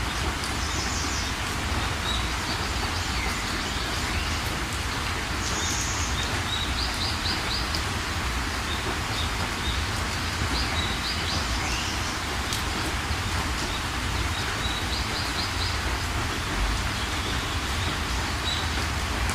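Steady rain falling, with small birds chirping in short repeated high notes and quick trills several times over it.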